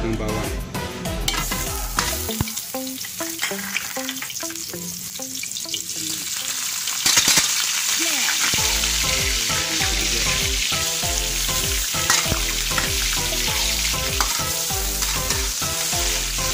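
Chopped garlic and onion sizzling in hot cooking oil in a wok as they are stirred. The sizzle grows markedly louder about seven seconds in and stays loud.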